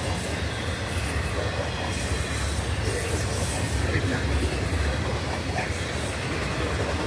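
Florida East Coast Railway freight train of autorack cars rolling past close by: a steady, even noise of steel wheels on rail with some clatter, no single event standing out.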